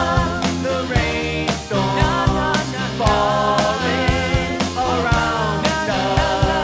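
Rock song playing: drums keep a steady beat under bass and chords, with a lead melody line that bends and wavers.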